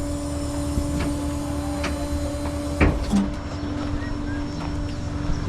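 A vehicle engine idling with a steady low rumble and hum, with a few sharp clicks and a knock about three seconds in.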